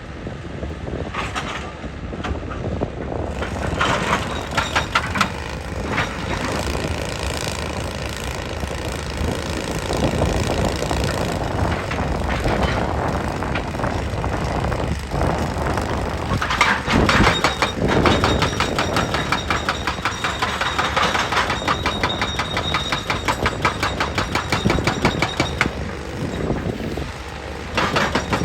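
Heavy machinery running, with a fast, even hammering that grows denser and louder over the second half.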